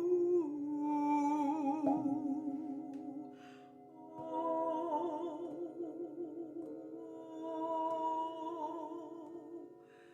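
A woman's voice singing long, wordless held notes with vibrato, layered over steady sustained tones, in a sound-healing vocal meditation. The sound fades down briefly a few seconds in and again near the end.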